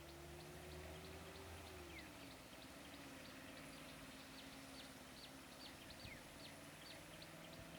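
Faint outdoor ambience, close to silence: short high chirps repeating a few times a second over a faint low hum that rises slowly, then falls about two seconds in.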